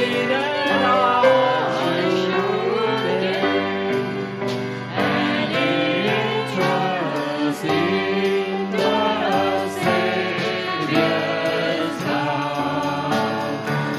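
Worship song sung by a group of voices with piano accompaniment and a steady drum beat.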